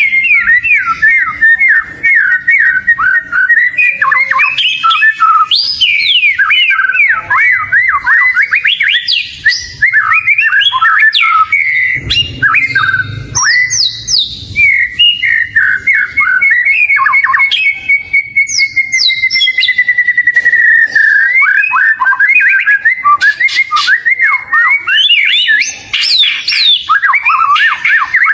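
Oriental magpie-robin (kacer) in full song: a loud, unbroken run of quick, varied whistles and chirps, with one long held whistle in the middle.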